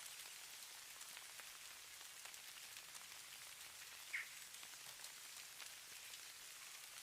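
Faint, steady hiss and fine patter of falling snow ticking on a surface, with one short high chirp about four seconds in.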